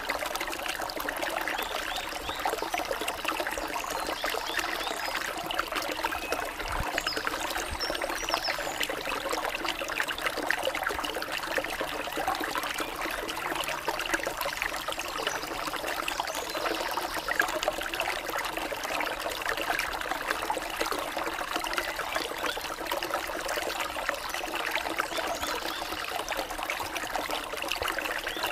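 Running water of a small stream, trickling and splashing over rocks in a steady, unbroken flow.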